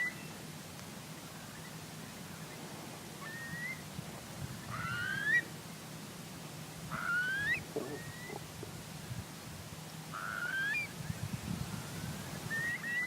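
Bird calls outdoors: a slurred, upward-sliding call repeated about six times, a couple of seconds apart, over a faint steady low background hum.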